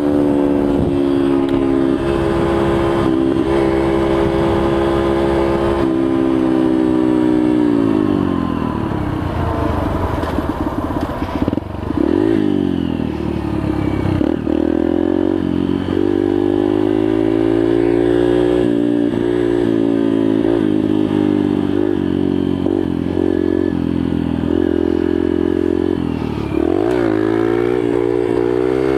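Yamaha TTR125's single-cylinder four-stroke engine running under way at steady high revs. The revs fall away for several seconds as the bike slows, then pick up again about twelve seconds in and hold, with a short dip and rise near the end.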